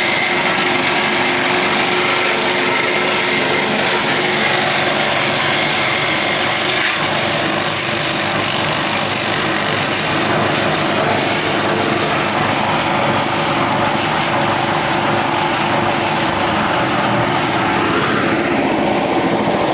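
Forage chopper machine for grass and cassava stems running loud and steady during a test run, with a continuous mechanical din.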